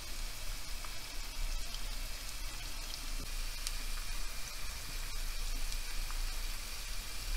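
Sliced onions frying in olive oil in a pan: a steady sizzle with scattered small pops, as the onions begin to sauté.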